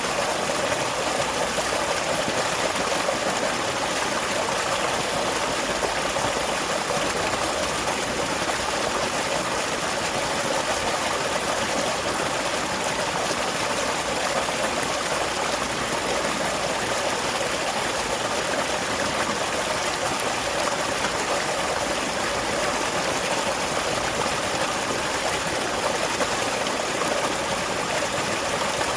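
Small waterfall flowing steadily, an even rush of falling water.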